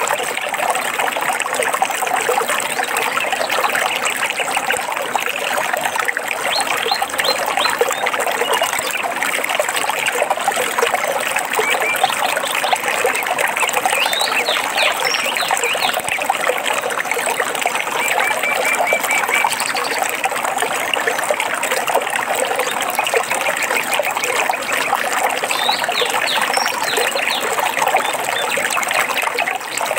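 Water trickling and splashing steadily over stones, with small birds chirping in short quick series several times over it.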